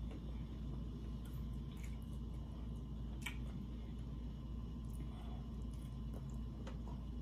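A person eating seafood boil: wet chewing and squishy mouth sounds with scattered sharp clicks, the strongest about three seconds in, over a steady low hum.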